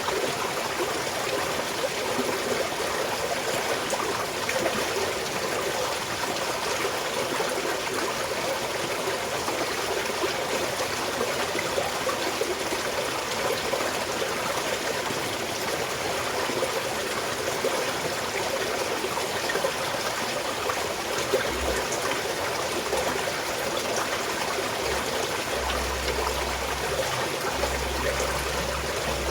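Small mountain stream flowing and trickling steadily, an even rushing babble with no pauses. Occasional low rumbles in the second half, perhaps wind on the microphone.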